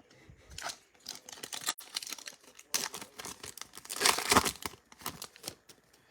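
Foil trading-card pack wrapper being torn open and crumpled by hand: an irregular run of crinkling crackles, busiest about four seconds in.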